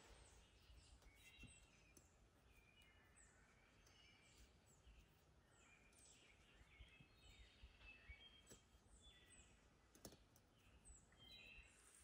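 Near silence, with faint songbird chirps and short falling whistles repeating in the background.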